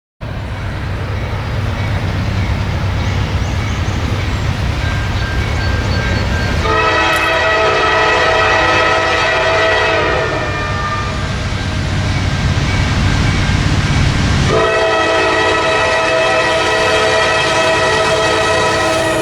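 Diesel freight locomotive rumbling past with a steady engine drone, sounding its multi-tone air horn in two long blasts: one about seven seconds in lasting some three seconds, and another starting near the end that is still sounding as it ends.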